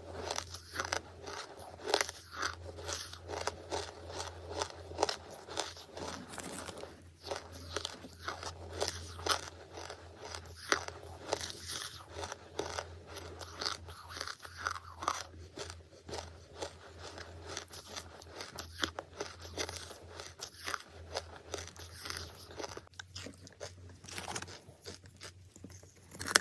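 Close-miked chewing of charcoal: irregular crisp crunches and bites, several a second, over a faint steady low hum.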